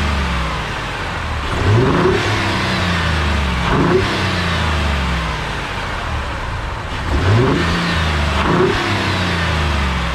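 2019 Ford F-150's 3.5L EcoBoost twin-turbo V6 idling and revved four times in short throttle blips, about two, four, seven and a half, and nine seconds in, each climbing quickly and dropping straight back to idle.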